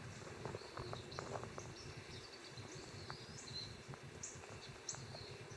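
Small songbirds, among them phoebes and chickadees, giving short high chirps and calls, repeating about every half second in the latter half, over a faint low background hum.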